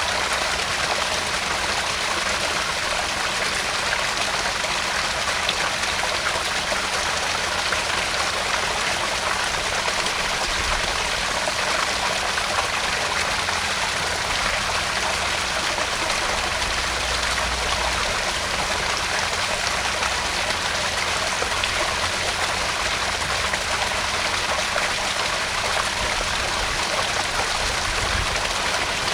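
Small garden-pond waterfall splashing and trickling steadily into the pond.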